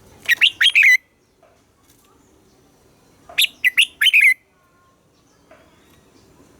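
Red-whiskered bulbul singing two short phrases of quick whistled notes, about three seconds apart.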